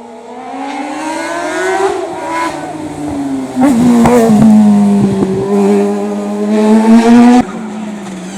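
Race car engine accelerating hard, its pitch rising and then dropping at each gear change. It grows louder as the car approaches, is loudest through the middle, and the engine note cuts off abruptly shortly before the end.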